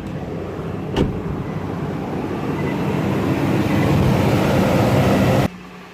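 Toyota Land Cruiser 1GR V6 engine running, its exhaust-manifold leak freshly patched with epoxy putty. The noise grows louder over about five seconds, with a sharp click about a second in, and cuts off abruptly near the end.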